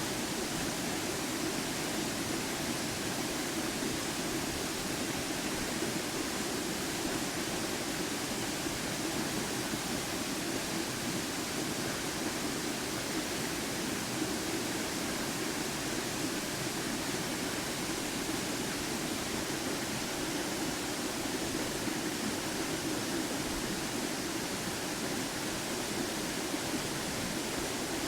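Waterfall, the sound of falling water, pretty loud and completely steady.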